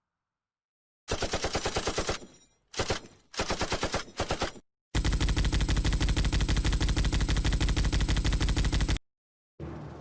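Machine-gun fire sound effect: rapid, evenly spaced shots in two bursts of about a second with a very short burst between them, then one long burst of about four seconds that cuts off suddenly.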